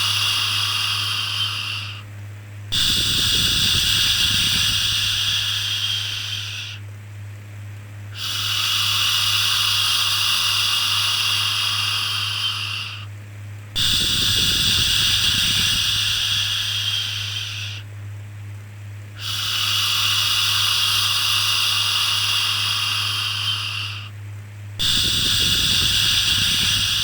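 Long drawn-out "shhh" shushing for soothing a baby, each shush lasting about four seconds with a short pause between, repeating about every five and a half seconds over a steady low hum.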